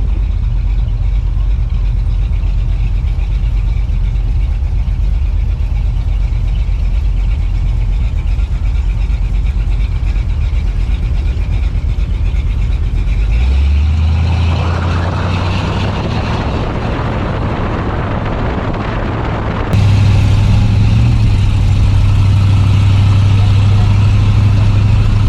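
Car engine running with a steady low rumble. About halfway through, a rush of noise rises over it for several seconds. It then cuts abruptly to a louder, steadier low hum.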